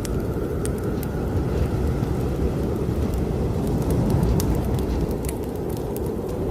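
Strong blizzard wind blowing steadily with a faint whistling howl, over scattered sharp crackles of a wood fire burning in a fireplace.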